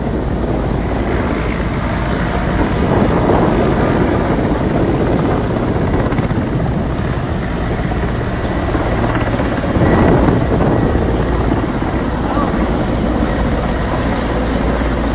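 Helicopter engine and rotor running with a loud, steady noise, swelling slightly about three seconds in and again about ten seconds in.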